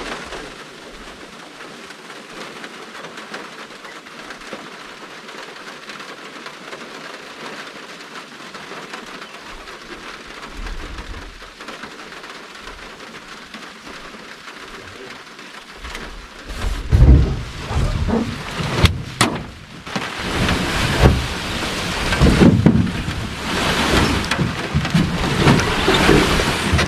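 Steady rain falling, then thunder rumbling in heavy rolls from about two-thirds of the way in, with a sharp crack among them.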